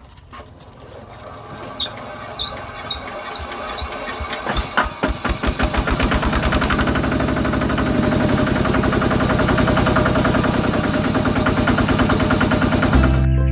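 Small engine of a DIY mini tractor starting: scattered, uneven firing pops that quicken over several seconds into a fast, steady run.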